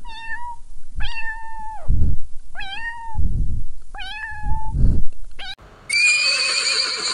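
A young kitten mewing four or five times, thin high mews each up to a second long, with low thuds between them. Near the end, a horse starts whinnying.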